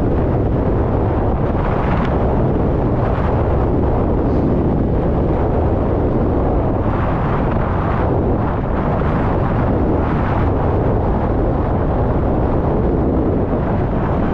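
Wind buffeting the microphone while riding a bicycle: a loud, steady rumble.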